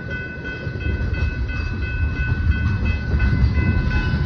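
Freight train cars rumbling past on the rails, the rumble growing louder, with thin high ringing tones sounding on and off over it.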